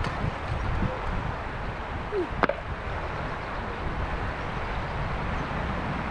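Mountain river flowing steadily, a continuous rush of water, with one short sharp click about two and a half seconds in.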